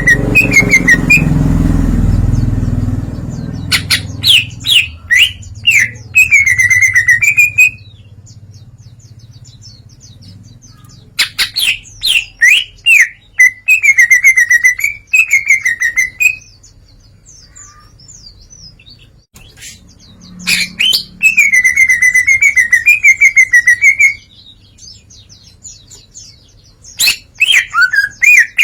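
Cucak ijo (green leafbird) singing loudly in four bursts of a few seconds each, quick repeated sharp notes running into a warbling trill, with short pauses between. It is singing full out and pouring out its repertoire of learned songs. A low rumble sits under the first few seconds.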